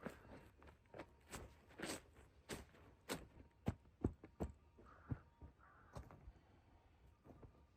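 A series of irregular light knocks and crunches, roughly two a second, that thin out and fade after about six seconds.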